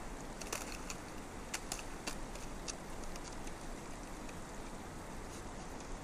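Creek water running steadily, with several sharp clicks in the first three seconds.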